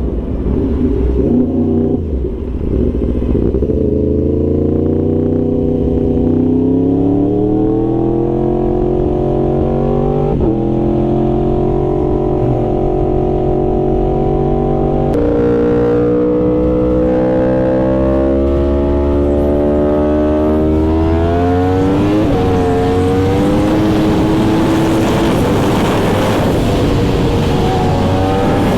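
Yamaha R1 sport bike's inline-four engine pulling under acceleration, its pitch climbing and then stepping down at each upshift, three times. Wind rush grows toward the end as speed builds.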